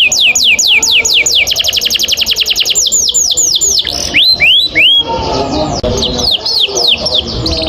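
Domestic canary singing a long rolling song: high whistled notes that each slide steeply downward, repeated in quick series. About a second and a half in they speed into a tight rapid trill. Near the middle a few slower notes slide upward before the falling notes return.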